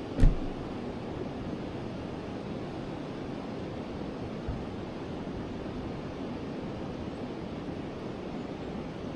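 Steady rush of a flowing forest river. A sharp low thump right at the start is the loudest sound, and a fainter one comes about halfway through.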